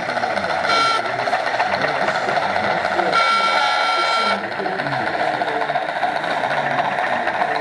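Small electric model train motor running with a steady hum over background chatter. A brief high steady tone sounds about three seconds in.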